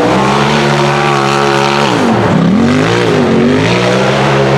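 Turbocharged UTV engine under hard throttle, held at high revs for about two seconds, then dropping sharply and climbing back up a couple of times as the throttle is lifted and reapplied.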